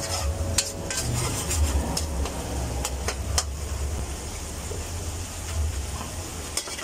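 Sauce sizzling and simmering in a steel wok on a gas stove, over a low steady hum. Through the first three and a half seconds a metal utensil clicks and scrapes against the pans several times.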